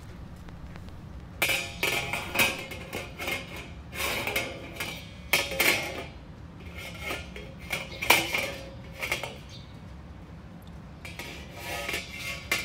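Metal camping gear being handled: a run of clinks, clanks and scrapes, some with a brief metallic ring, starting about a second and a half in, with a short pause before a last few clanks near the end.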